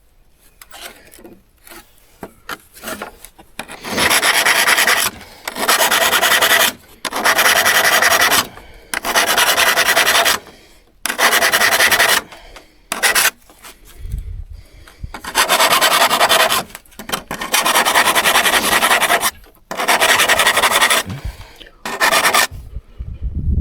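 Hand-worked abrasive strokes, sanding or filing, on a vintage hand saw, scraping back and forth. The first few strokes are light and short; from about four seconds in come loud, long strokes of a second or more each, with brief pauses between them.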